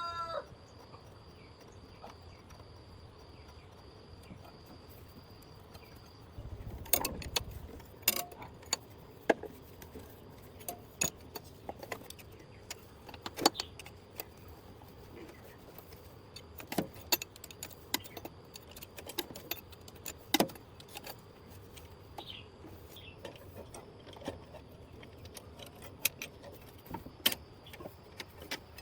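Scattered, irregular metallic clinks and knocks, typical of hand tools handled on car parts, with a short low rumble about seven seconds in.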